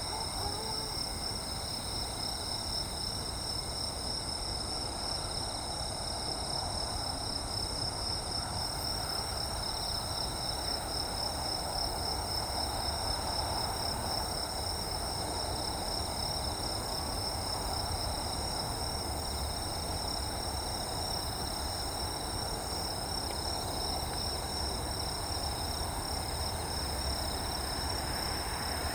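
Steady chirping of insects, a constant high shrill, over a low rumble that swells a little midway.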